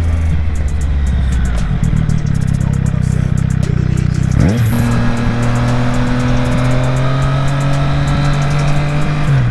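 Triumph Street Triple R's inline-three engine under way, running at steady revs, with a quick gear change about four and a half seconds in and the revs dropping again near the end.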